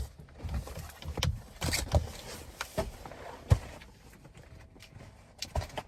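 A seat cover being worked over a bulky car seat: fabric rustling and scattered bumps, with one sharp knock about halfway through.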